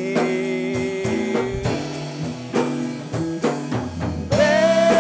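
A band playing a slow blues song: a drum kit keeps a steady beat under guitar, and a singer holds out one word.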